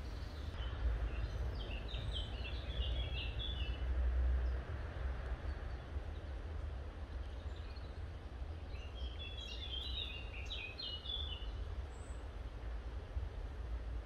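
A songbird sings two phrases of short, quick chirping notes, the first about a second and a half in and the second about nine seconds in. A steady low rumble runs underneath.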